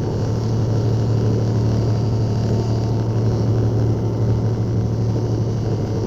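Skid steer engine running steadily at low throttle, an even drone with no revving.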